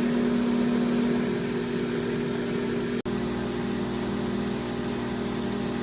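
Microwave oven running with a steady hum, heating a bowl of grits; the hum breaks off for an instant about halfway through.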